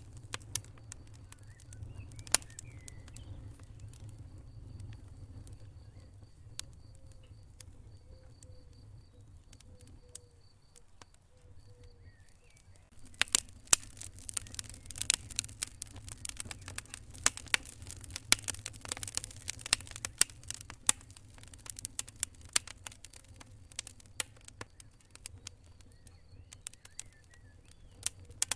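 Wood fire in a fireplace crackling over the low rumble of the flames: only a few sharp pops at first, then about halfway through a dense run of crackling and snapping that thins out near the end.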